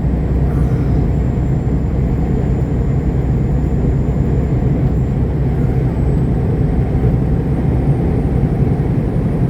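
Semi truck running down the road, heard from inside the cab: a steady low drone of engine and road noise that holds even throughout.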